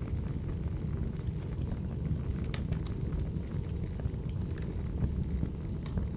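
Firewood burning: a steady low rumble of flames with sparse sharp crackles and pops, a few close together about two and a half seconds in.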